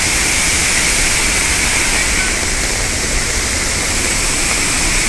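Loud, steady roar of a large waterfall, with no breaks or distinct events.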